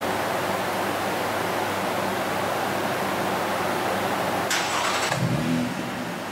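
Nissan Presage exhaust with an aftermarket round bullet-type rear silencer, running with a deep low note. About four and a half seconds in a brief hiss sounds, then the engine note shifts and settles into a slightly quieter steady idle.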